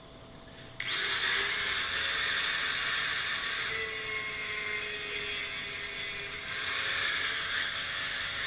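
Angle grinder starting up about a second in and then running steadily on metal, a loud high-pitched whine with hiss.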